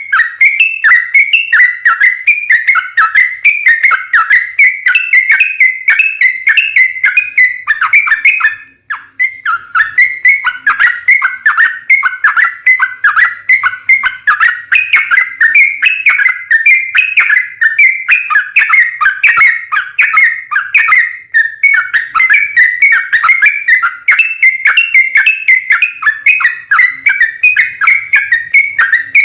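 Yellow-vented bulbul (trucukan) in full song: a long, rapid run of quick chattering whistled notes. The run breaks off once, briefly, about nine seconds in.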